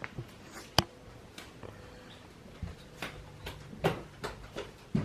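A sharp click about a second in, then a run of soft knocks and low thuds, a couple a second, in the second half.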